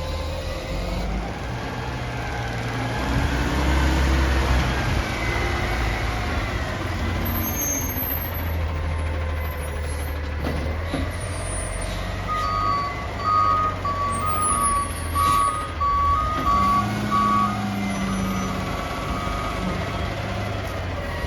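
Garbage truck's diesel engine running and revving up and down as it works. Its reversing alarm starts beeping a little past halfway, about two beeps a second, and stops near the end.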